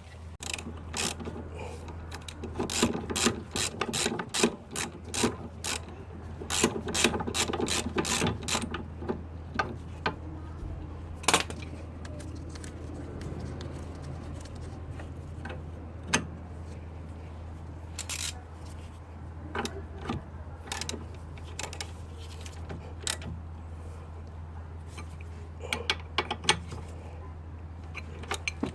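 Ratchet wrench clicking in quick runs of strokes for the first several seconds, then in scattered single clicks, turning fasteners during a car strut replacement. A steady low hum runs underneath.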